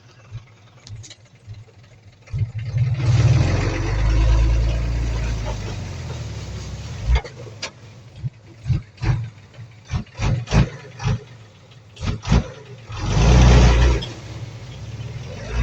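Bulldozer's diesel engine revving up in two loud surges, with a run of sharp knocks and clanks between them.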